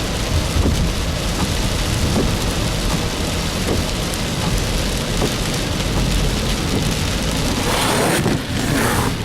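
Heavy rain hitting a moving vehicle, a dense steady hiss over a low road rumble. About eight seconds in there is a brief louder rushing swell.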